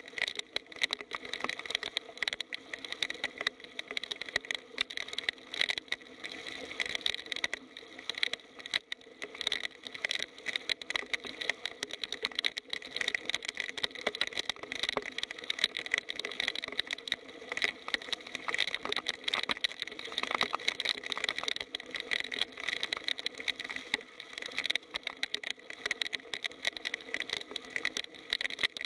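Heavy rain falling: a dense, continuous patter of drops striking, with no let-up.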